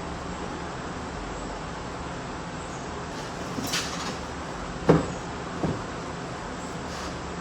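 A short scrape, then two knocks about two-thirds of a second apart, the first the louder, over a steady background hum.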